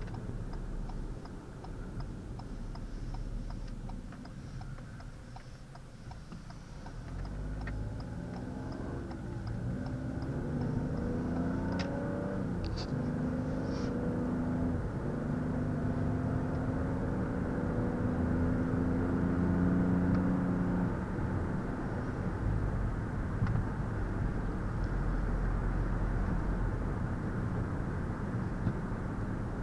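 Engine of a 2020 Ford Escape SE, a 1.5-litre EcoBoost three-cylinder, heard from inside the cabin while driving. It starts quiet, then pulls away with its note rising and stepping through gear changes for several seconds. It settles into a steady cruise with tyre and road noise.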